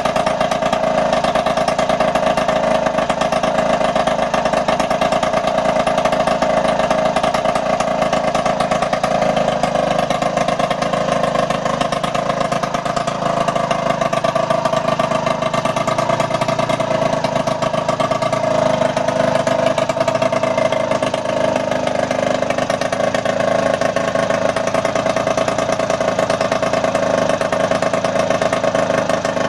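Small engine running steadily at a constant speed after being started, with a fairly high, even pitch and no change in speed.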